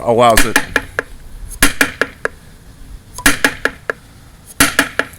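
Hollow wooden woodpecker door knocker, built like a tongue drum with sound holes underneath, struck in four quick bursts of sharp knocks about a second and a half apart, like a woodpecker drumming.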